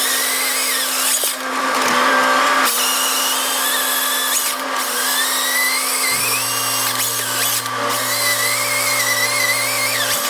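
Grapple saw's chain cutting through logs: a loud power-tool whine that wavers in pitch as it cuts, with a few short breaks.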